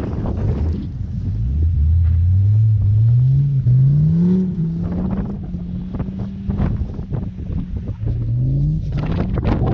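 Audi Quattro car's engine accelerating through snow, its pitch climbing, a short break about three and a half seconds in as if for a gear change, then holding steady before climbing again near the end. Wind gusts buffet the microphone at the start and end.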